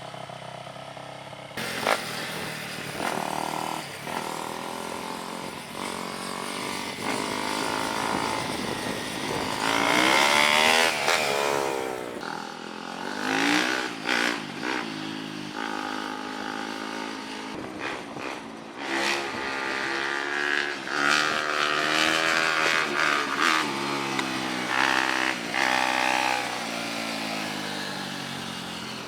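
Small off-road engines revving up and down as riders pass, the pitch climbing and falling several times, loudest about ten seconds in.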